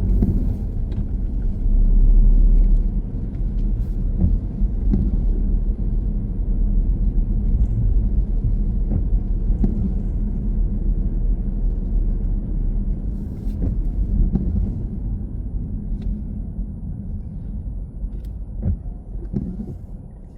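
Car driving, heard from inside: a steady low road-and-engine rumble with scattered small clicks and knocks. The rumble fades over the last few seconds.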